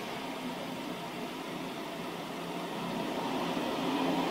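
Freight train of covered tarpaulin wagons rolling past: a steady rumble of steel wheels on the rails, growing a little louder near the end.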